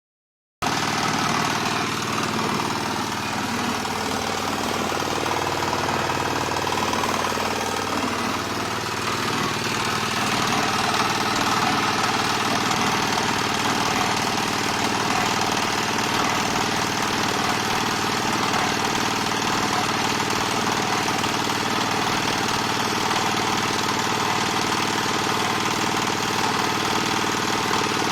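Diesel engine of a small palm oil screw press running steadily under load, starting suddenly about half a second in.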